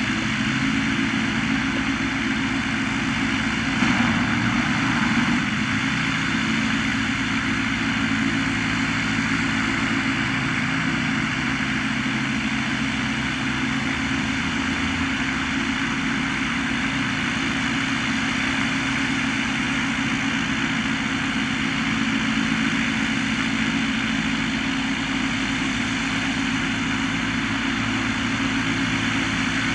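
Blackshape Prime light aircraft's piston engine and propeller running at a steady, even speed, with a constant hiss over it and a brief louder swell about four seconds in.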